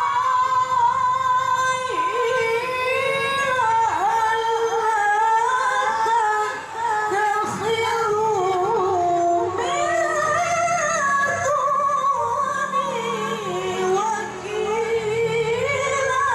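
A woman's high, clear voice chanting Quran recitation (tilawah) in long, melismatic phrases, the pitch winding and ornamented through each held note. It pauses briefly twice.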